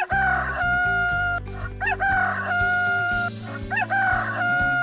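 Rooster crowing three times, each call a short rising note followed by a long held cock-a-doodle-doo. Steady background music runs underneath.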